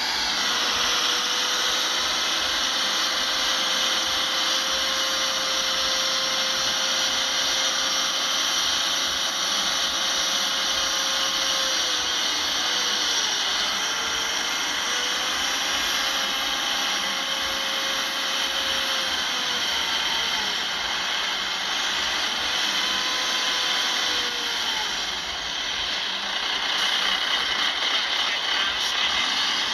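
Heavy earthmoving machinery running steadily, its engine's whine dipping briefly in pitch several times past the middle as it takes load.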